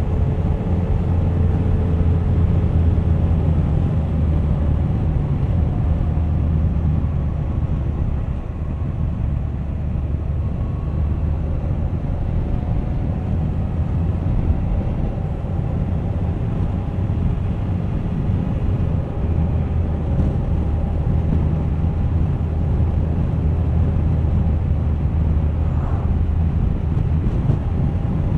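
Suzuki GSX1250FA's inline-four engine running at speed on the road, mixed with road and wind noise; its pitch drifts gently up and down as the speed changes, dropping a little in loudness about eight seconds in.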